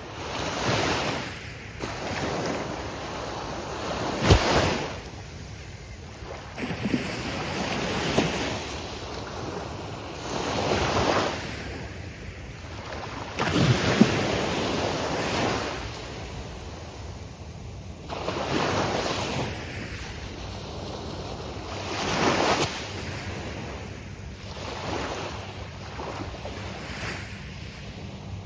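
Ocean surf breaking on a beach, wave after wave every few seconds, each a rush that swells and falls away. Two waves crash more sharply, about four and fourteen seconds in.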